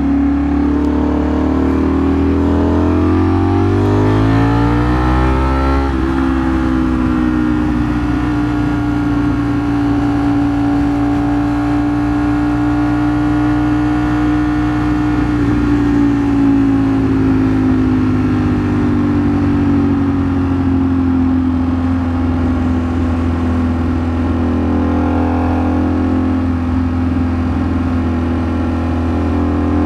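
Ducati Streetfighter V4S's V4 engine rising through the revs over the first few seconds under acceleration, then holding a steady cruising pitch that dips a little and comes back up.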